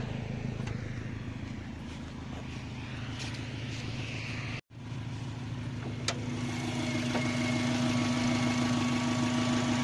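Turbocharged Subaru EJ20G flat-four engine running at idle. It cuts out briefly near the middle, then is heard close up and louder, with a steady whine over the rumble.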